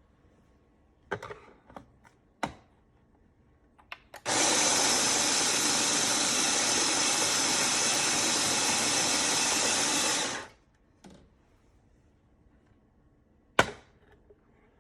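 OXO Brew conical burr coffee grinder running for about six seconds, a steady motor whir that starts and stops abruptly. Several clicks and knocks come before and after it, with a sharp click near the end.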